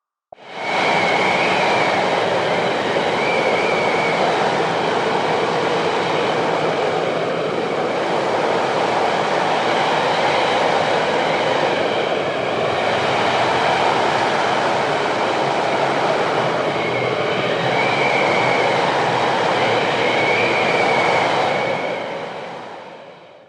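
Blizzard wind blowing hard and steadily, swelling and easing every few seconds, with a thin wavering whistle over the rush.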